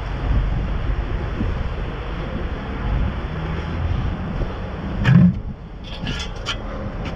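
Steady low rumble with a single loud knock about five seconds in and a few lighter clicks just after it, as scrap is shifted and loaded into a truck.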